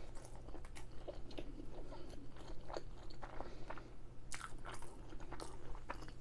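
Close-miked chewing of a mouthful of creamy chicken fettuccine Alfredo: irregular wet mouth clicks and smacks.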